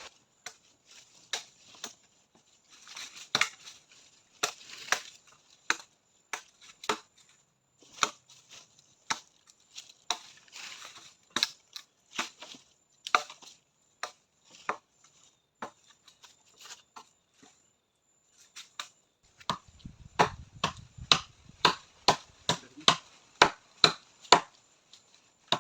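Blade chopping into wood, one sharp strike at a time at an uneven pace, speeding up to about two strikes a second near the end.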